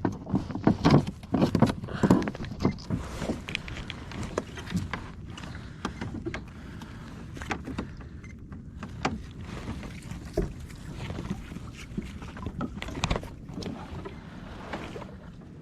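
Water sloshing and splashing around a fishing kayak, with scattered short knocks and clicks. The knocks are busiest in the first few seconds.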